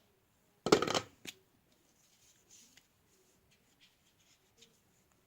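A loud, brief handling noise about a second in, then faint, scattered scratching strokes of a felt-tip marker drawing on a cardboard box.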